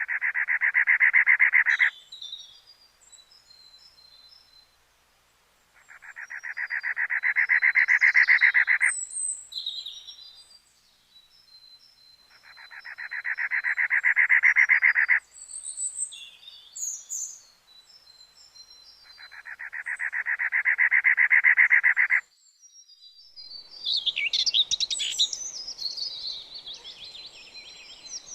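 Songbirds chirping and twittering, building to a dense burst of birdsong near the end. Four times, a buzzy, rapidly pulsed sound about three seconds long swells in loudness and then cuts off abruptly.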